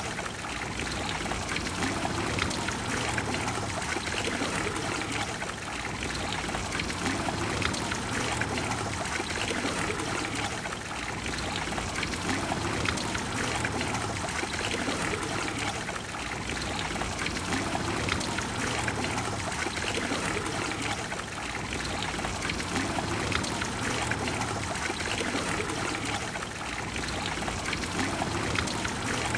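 Water of the Trevi Fountain falling and pouring into its basin: a steady rush of water noise, with slight dips in level every five seconds or so.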